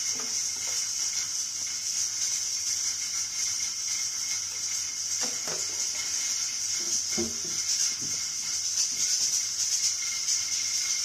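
Mutton karahi sizzling steadily in a wide pan, an even high hiss, with a few faint knocks in the middle.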